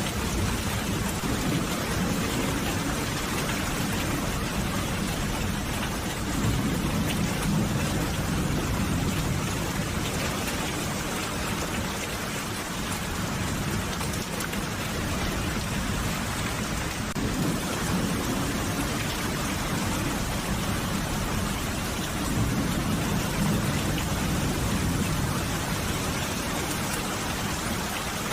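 Steady heavy rainfall, an even hiss of drops on surfaces. A low rumble swells under it twice, a few seconds in and again past the middle.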